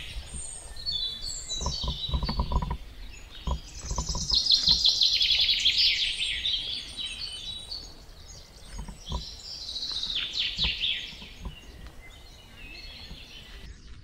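Wild birds singing and calling in rapid, trilled chirps, loudest about four to six seconds in. A few low thuds come in the first three seconds.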